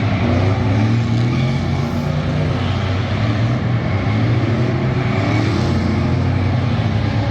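Truck engine running loud and steady, with a small rise and fall in pitch.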